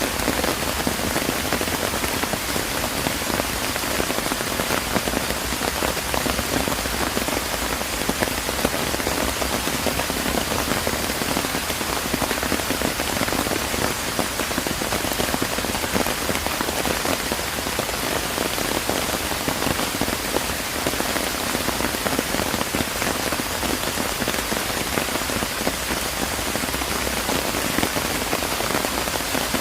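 Steady rainfall: an even hiss of many small drops that neither builds nor fades.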